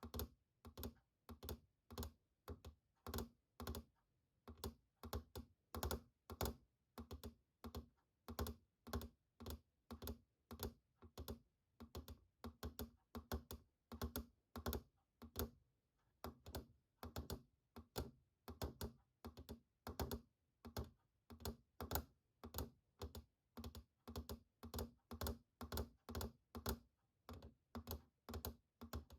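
Keys of a computer keyboard being tapped one at a time in a slow, even rhythm, about two clicks a second, with a short pause about four seconds in.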